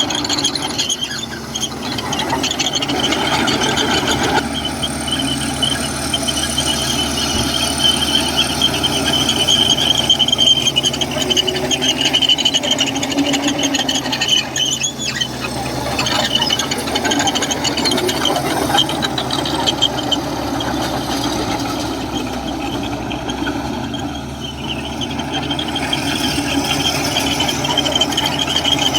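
Komatsu crawler bulldozer at work: a high squeal from its steel tracks and undercarriage runs on over the steady sound of the diesel engine.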